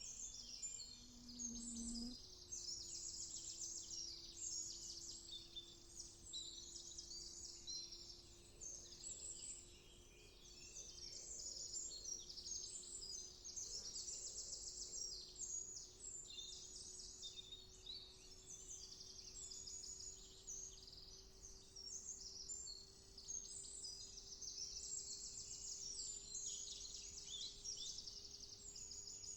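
Many small songbirds chirping and singing at once in woodland, a dense overlapping chorus of short high calls. A faint steady low hum runs underneath, stepping up in pitch about two seconds in.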